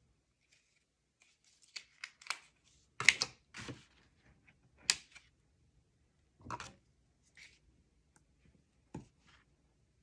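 Hands working with paper and adhesive tape: a string of short, irregular rustles and crackles, the loudest about three seconds in.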